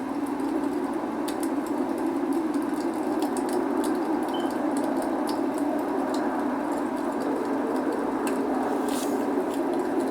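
Log fire crackling, with scattered sharp pops and ticks over a steady rushing noise of rain.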